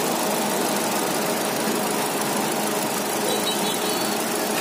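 Chevrolet Cruze's 1.8-litre Ecotec petrol four-cylinder idling steadily, heard close up under the open bonnet. It runs very smoothly, as a sound engine should.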